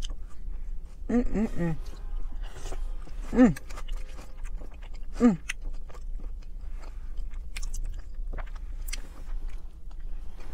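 Close-miked eating sounds of a woman chewing a mouthful of beans and roasted chicken: wet chewing with many small clicks, plus a metal fork against the plate. A few short hums just after a second in, then two brief falling hums about a third and halfway through.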